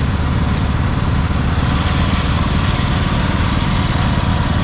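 An engine idling steadily at a constant speed.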